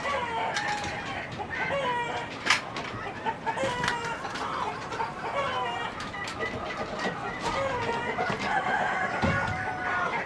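A flock of chickens clucking and calling over one another, with a few sharp clicks among the calls.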